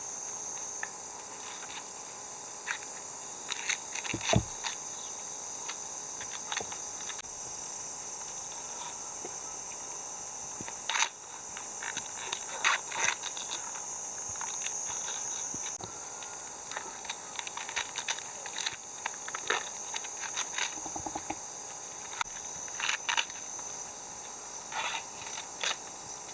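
Steady high-pitched chorus of summer insects, with scattered short clicks and knocks over it.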